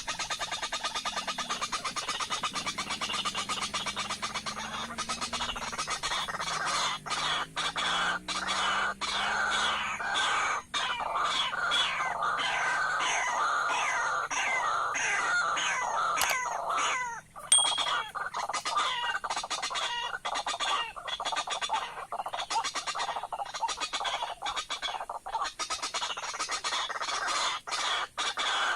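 White-breasted waterhen (ruak-ruak) calling: a long, fast run of repeated short harsh notes. A low wavering tone sits under the calls for the first ten seconds or so.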